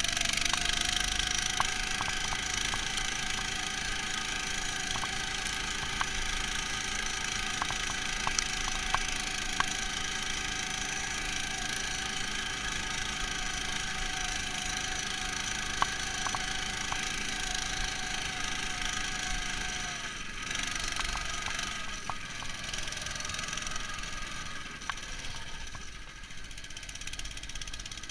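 Neva MS-1 walk-behind tractor's engine running steadily, muffled through the camera's protective case, with scattered sharp clicks and rattles. The sound eases a little about two-thirds of the way in.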